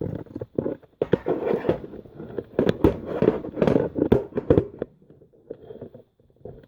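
Close handling noise: a rapid run of clattering knocks and clicks as objects are moved and set down, lasting about four seconds before it quiets down.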